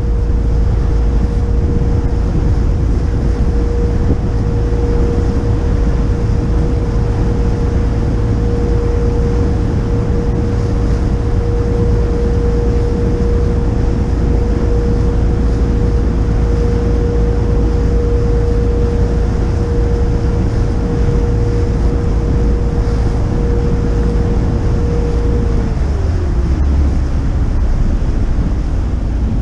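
Motor yacht under way: a steady low engine rumble with wind buffeting the microphone and water noise. A steady whine runs through it and drops in pitch near the end, as the throttle comes back.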